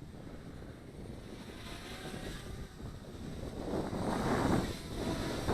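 Strong wind buffeting the microphone in gusts, a low rumble that grows louder, with the biggest gust about four seconds in.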